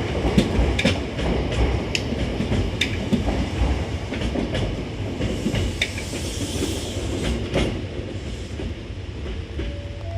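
Hankyu 9000 series electric train running past as it pulls out of the station, a steady low rumble with its wheels clicking irregularly over rail joints.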